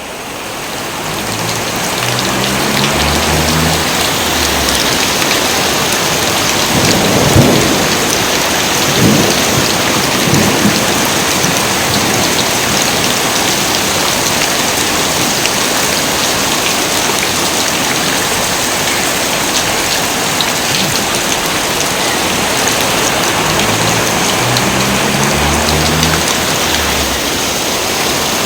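Heavy rain falling steadily, fading in over the first couple of seconds, with several cracks and rumbles of thunder between about seven and eleven seconds in, the loudest first.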